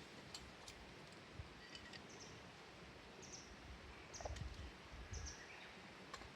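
Quiet steady background hiss with a bird chirping briefly and high-pitched about once a second from two seconds in. There are a few soft low thumps near the middle.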